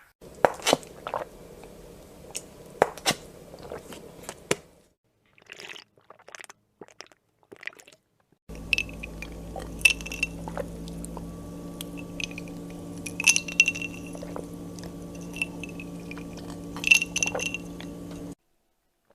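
A string of short drinking sound-effect clips: mouth clicks, sips and swallows, with glassy clinks. It comes in separate takes with short gaps; the last take, from about 8.5 s to near the end, has a steady hum under it.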